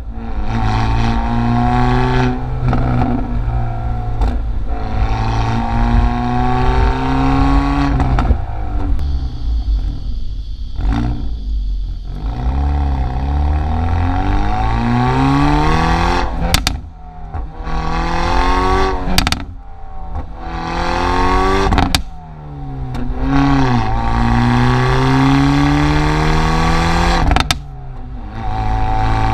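Hyundai i30 N's turbocharged four-cylinder engine accelerating hard through the gears, its pitch climbing and then dropping at each shift. Sharp exhaust cracks and pops sound at several of the shifts and lift-offs.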